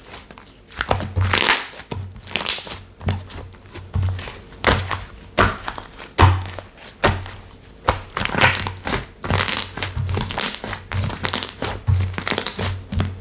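Slime being pressed and squished by hand over and over, giving crackling, sticky popping noises with a soft thunk at each press, about one to two presses a second.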